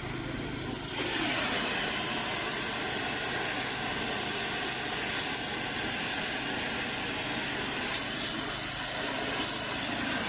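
Loud steady hissing from rail-maintenance equipment, starting about a second in and cutting off suddenly near the end.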